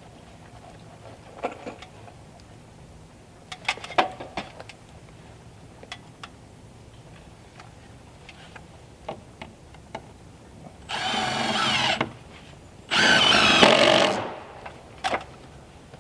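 Power drill running in two bursts of about a second each, the second a little longer, with scattered knocks and clicks from hand work before them.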